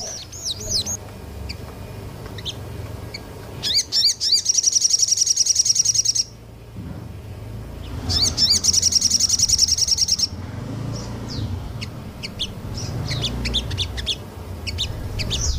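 Small songbird singing in high chirps and whistles, broken by two long, very fast trills of rapid-fire repeated notes, each about two seconds long, at about four and eight seconds in.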